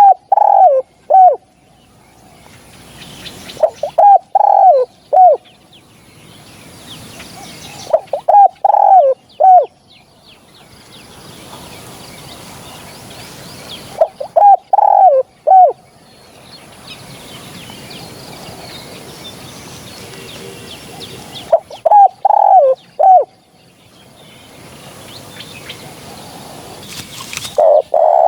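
Spotted dove cooing: short phrases of three or four coos, repeated every few seconds, as used for a hunting lure call.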